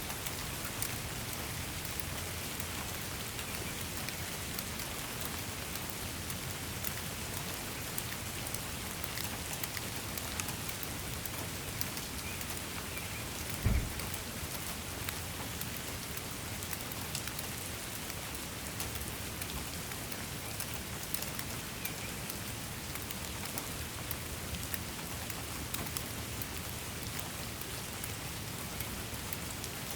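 Steady rain falling on a surface, an even hiss with many individual drops ticking through it. About halfway through there is a single brief low thump.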